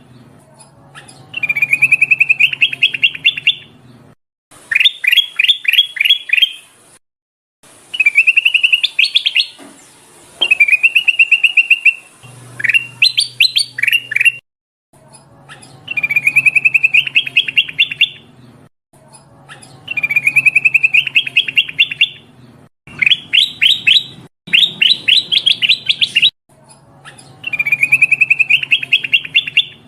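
Kutilang emas bulbul singing loudly: phrases of a few seconds each, made of a wavering whistle that breaks into a quick run of sharp notes, repeated about ten times with short pauses between. A low hum runs under the song.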